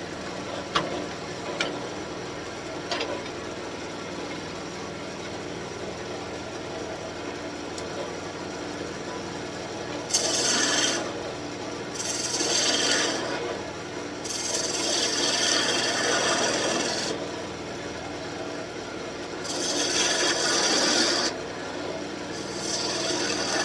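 Wood lathe running steadily while a turning tool cuts a spinning birch branch: from about ten seconds in, five scraping cuts of one to three seconds each, the longest near the middle, with a few light clicks early on.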